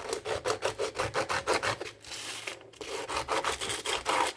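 Sandpaper rubbed by hand over a part of a Goatguns SVD miniature model gun, in quick back-and-forth strokes about six a second. There is a short break about two seconds in, and the strokes stop suddenly near the end.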